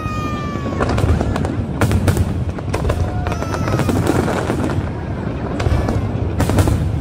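Fireworks going off in a display: repeated sharp bangs and crackles over a continuous low rumble.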